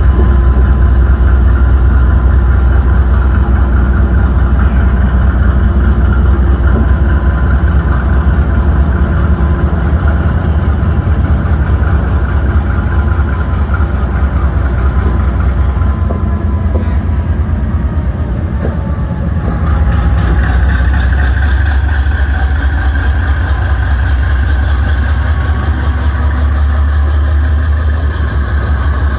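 AGE-30 diesel-electric locomotive engine working hard as it hauls a train, a loud, steady, deep drone. It eases a little past the halfway mark, then builds again at about two-thirds of the way in.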